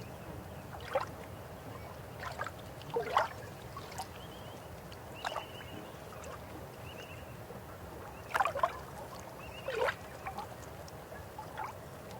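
River water flowing: a steady rush with louder gurgles and splashes every second or two, the strongest about three, eight and ten seconds in.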